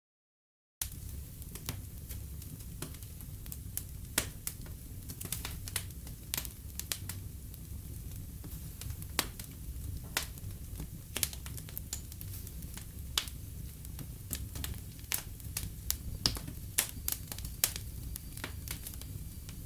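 Wood fire in a fireplace crackling, with frequent irregular sharp pops over a steady low rumble of the flames. The sound drops out completely for under a second at the start.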